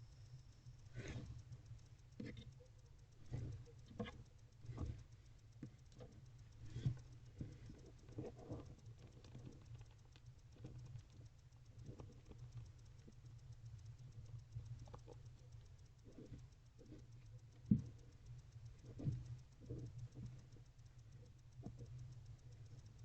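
Barn owl shuffling in its nest box as it repositions over its eggs: irregular scratches and taps from its feet on the box floor and nest material, over a steady low hum, with one sharper knock about three-quarters of the way through.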